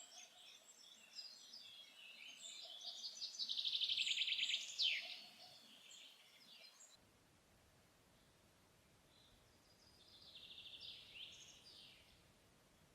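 Forest songbirds singing. The loudest song, about four seconds in, is a fast trill ending in a downward sweep, and a fainter, similar song comes near the end.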